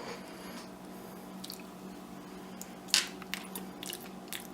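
A person biting into and chewing dried, Mexican-spice-seasoned mealworm larvae (Larvets), with one sharp crunch about three seconds in and a few smaller crunches after it.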